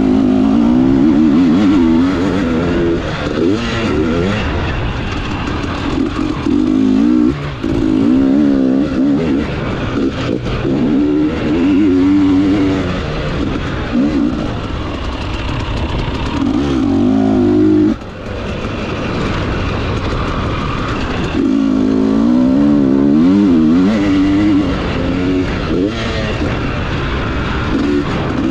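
KTM 300 TPI single-cylinder two-stroke engine revving hard and falling back again and again, its pitch rising and dropping with the throttle. The throttle is cut sharply about seven and about eighteen seconds in.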